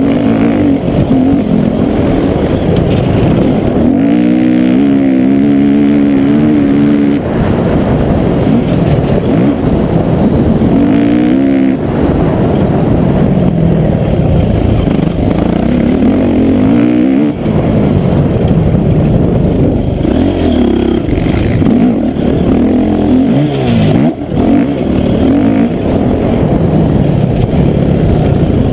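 Motocross dirt bike engine heard on board, loud, revving up and dropping back over and over as the throttle is opened and closed, its pitch rising and falling again and again.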